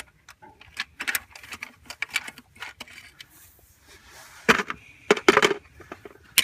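Irregular metal clinks and knocks of a socket wrench on long extensions working a rear bolt of a Sherman combination transmission housing. A louder cluster of knocks comes about four and a half to five and a half seconds in.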